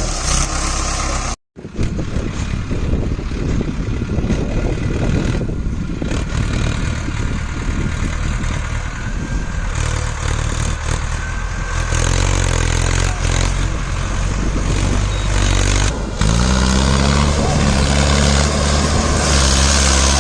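Diesel tractor engine running, with a brief dropout about a second and a half in and an abrupt change near the end.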